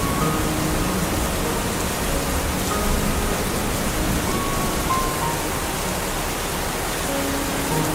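Steady tropical rain falling without a break, with a few faint short tones scattered through it.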